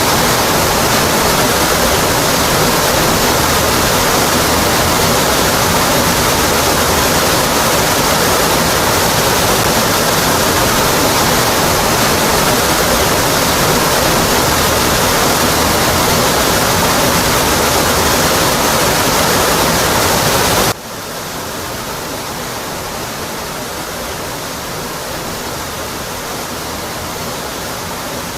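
Rocky Brook Falls waterfall, a steady loud rush of falling water. About three-quarters of the way through it drops suddenly to a quieter, softer rush.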